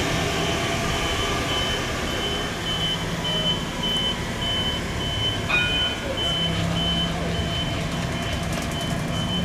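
A high-pitched warning beeper sounds about twice a second over the steady low hum of a running vehicle. About five and a half seconds in, a brief falling tone is heard.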